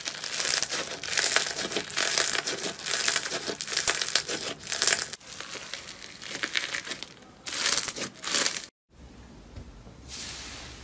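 Slime being squeezed and worked by hand, giving dense crackling for about the first five seconds, then a few shorter bursts. Near the end it cuts to a quieter passage with a low hum.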